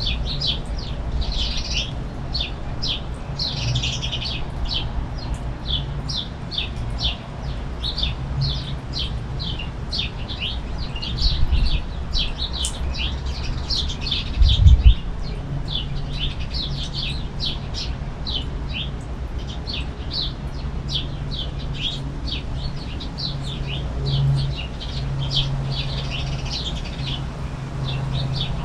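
Finches chirping rapidly and continuously, many short high chirps overlapping, over a steady low rumble. Two brief low thumps come near the middle.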